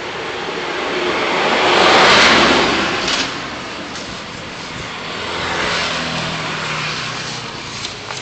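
City road traffic: tyre and road noise with a low engine hum, swelling loudest as a vehicle passes about two seconds in and again more softly around six seconds.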